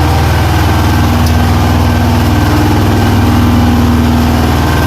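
Large marine diesel main engines and generators running in a tugboat's engine room: a loud, steady, low drone with no change in speed.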